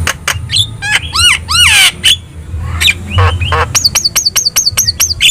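Javan myna (jalak kebo) singing a varied, chattering song of clicks, squawks and arching whistled notes, ending in a quick run of about eight repeated rising-and-falling whistles.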